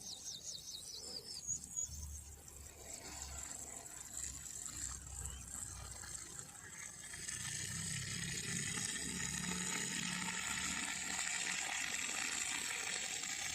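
Flowing water, growing louder and fuller about seven seconds in, with a bird's quick run of high chirps at the very start.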